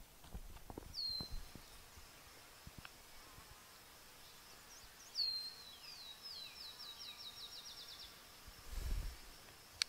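A songbird singing: one high downward-sliding note about a second in, then a fast trill of repeated high downward-sliding notes lasting about three seconds. Faint low taps and clicks from handling near the start, and a single sharp click near the end.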